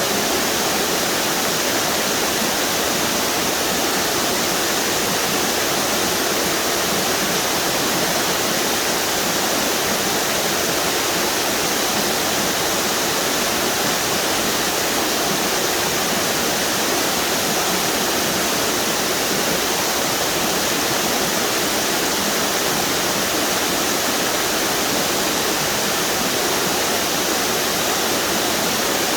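A string of river waterfalls pouring steadily, an even, unbroken rush of falling water.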